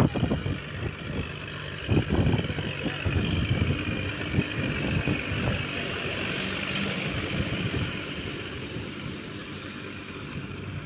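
New Holland tractor's diesel engine running, with sharp knocks at the start and again about two seconds in.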